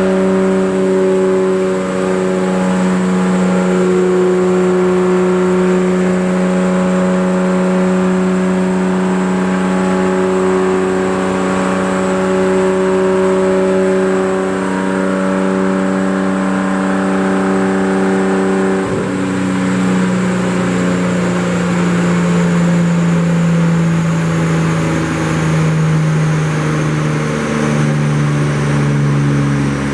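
Nissan Skyline R32 GT-R's twin-turbo RB26DETT straight-six running hard on a chassis dyno, holding one steady engine speed for a long stretch. About two-thirds of the way through there is a click and the engine note drops in steps as the revs come down.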